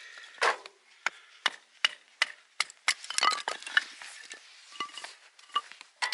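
A quick series of sharp wooden knocks and clacks, roughly two a second, with a denser cluster of them about three seconds in.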